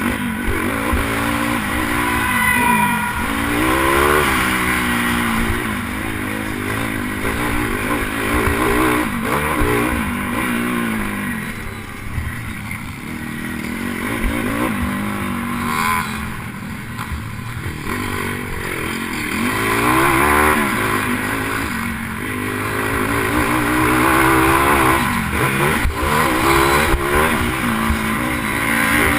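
Pitbike's single-cylinder engine revving hard and easing off over and over as the rider accelerates, shifts and brakes around the track, with a steady low rumble of wind on the helmet-mounted microphone.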